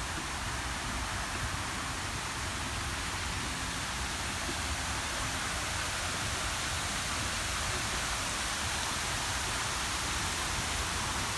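Steady, even rushing noise with no distinct events or voices.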